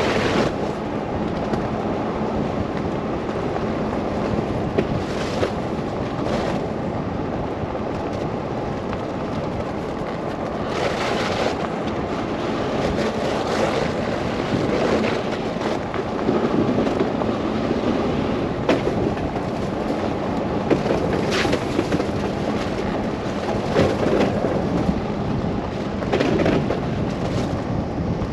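Car driving through a snow blizzard: a steady rush of wind and road noise with a faint low hum, and short louder surges every few seconds.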